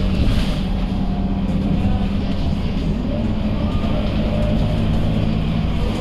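Scania K230UB city bus's 9-litre five-cylinder diesel engine running steadily under way, a low drone with faint whining tones above it that shift slightly in pitch.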